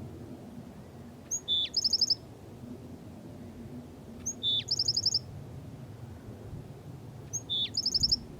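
Black-throated sparrow singing three times, about three seconds apart: each song is a couple of clear high introductory notes followed by a short, fast trill.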